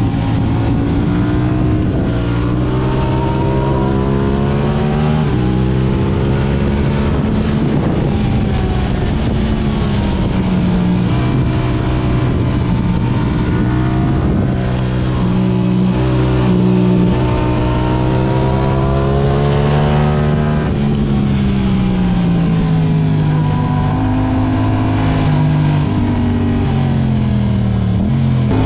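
Yamaha R6 inline-four sportbike engine through an Akrapovic exhaust, heard from onboard while ridden: the engine note climbs and falls repeatedly as the throttle is opened and closed.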